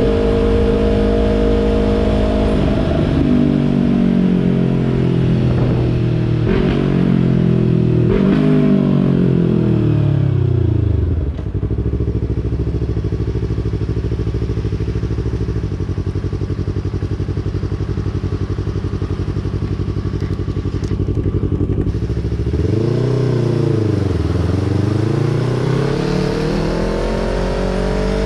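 2020 Yamaha YZF-R3's parallel-twin engine through a Yoshimura exhaust, slowing down with downshift blips, idling for about ten seconds, then pulling away and accelerating, with a gear change partway up.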